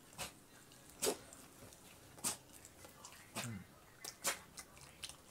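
Close-up mouth sounds of a person eating a double hamburger: chewing with sharp wet lip smacks, about one a second.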